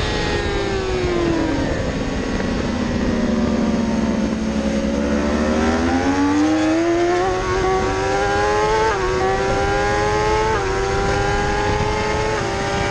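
BMW S1000RR inline-four engine on track, heard onboard with wind noise: the revs fall over the first couple of seconds as it slows for a corner, hold low, then climb hard under acceleration, with three brief dips in pitch from upshifts.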